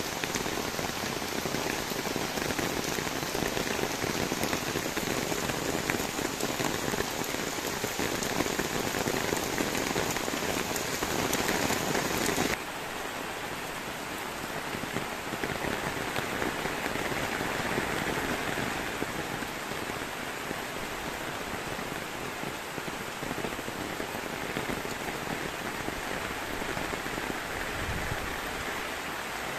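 Steady rain falling, an even hiss that drops suddenly to a softer, duller sound about twelve seconds in.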